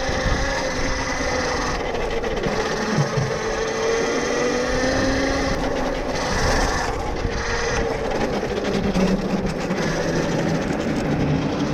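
Electric dirt bike under way: a motor whine that drifts slowly up and down in pitch, over a steady rasping rush of wind and tyre noise.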